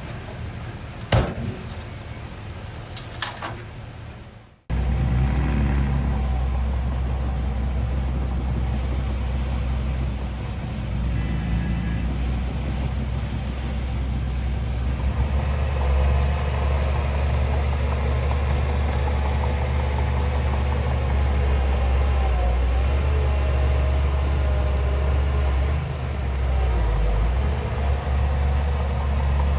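For the first four seconds there is an outdoor hiss with a few sharp clicks. It cuts off suddenly, and a heavy diesel engine of earthmoving machinery takes over, running steadily with a deep, even drone.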